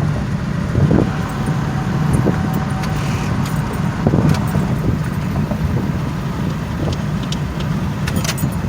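Steady low rumble inside the cabin of a 2007 Pontiac Grand Prix GT with its 3.8-litre V6 running, with a few light clicks and rattles.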